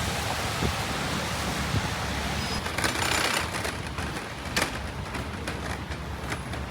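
City street traffic noise: a steady hiss of passing vehicles, swelling briefly about three seconds in, with a sharp click about four and a half seconds in.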